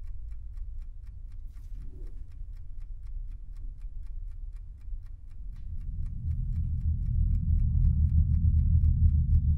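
Steady ticking of a clock, about four ticks a second, over a low rumbling drone that swells from about halfway through and grows loud by the end.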